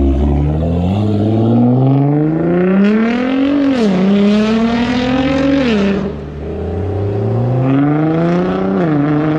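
A car engine accelerating hard through the gears: the note climbs steadily, then drops as it shifts up about three and a half seconds in, again about six seconds in, and again near the end.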